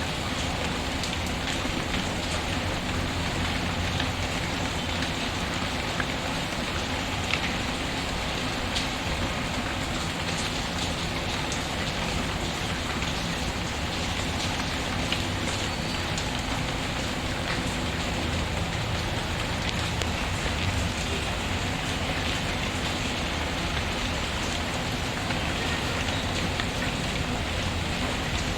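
Steady rain falling, mixed with a crackling wood fire in a fireplace that gives scattered small pops and clicks.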